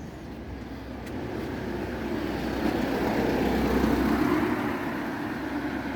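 A car driving past: the tyre and engine noise builds steadily, peaks about two-thirds of the way through, then fades as it goes away.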